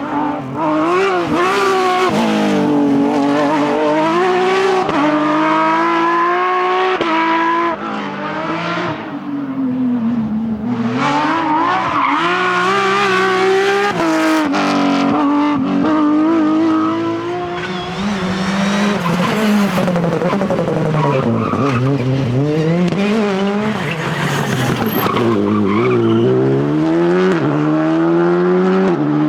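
Rally cars driven flat out on a stage, their engines revving hard and climbing and dropping in pitch again and again through gear changes and lifts, one car after another.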